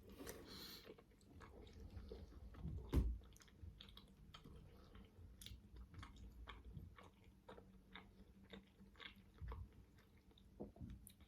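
Close-miked chewing and biting of steamed manty dumplings: soft wet mouth clicks and smacks, with one louder thump about three seconds in.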